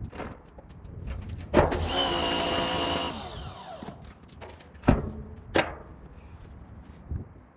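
A handheld power tool starts with a sharp click and runs at a steady high whine for about a second and a half, then winds down. Two sharp clicks follow.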